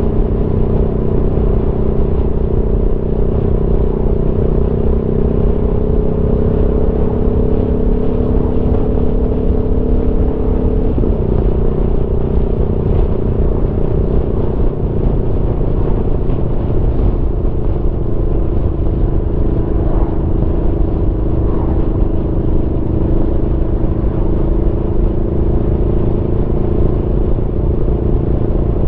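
Aprilia Tuono V4 motorcycle's V4 engine running under way with a low wind rumble. The engine note climbs slowly, drops sharply about eleven seconds in as a gear is shifted, then holds steady and rises gently again.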